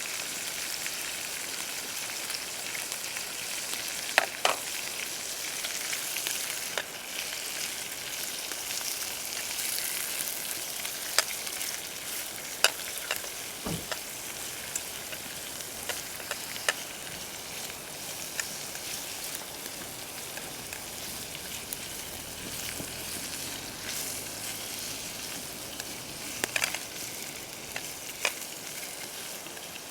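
Food sizzling in a pan over a campfire: a steady frying hiss, with scattered sharp clicks and taps throughout.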